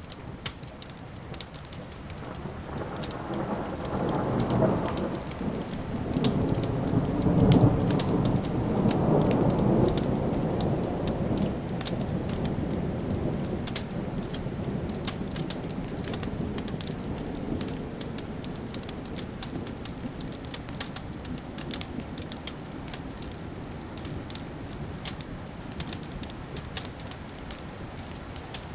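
A long roll of thunder swells about two seconds in, is loudest between about four and ten seconds, then slowly dies away, over a wood fire crackling with sharp pops throughout.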